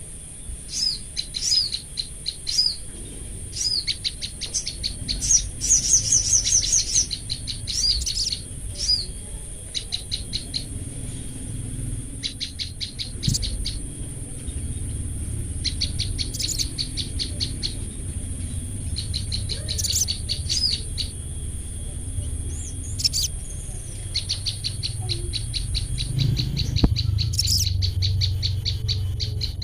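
Sogon and olive-backed tailorbird (prenjak lumut) calling back and forth in bursts of fast, sharp repeated notes, a second or two each, with a steady high hiss behind them that stops near the end.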